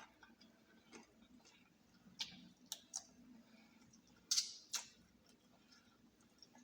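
Close-miked eating of fried chicken legs: soft chewing with a scattering of sharp, crispy crunches, the loudest two about four and a half seconds in.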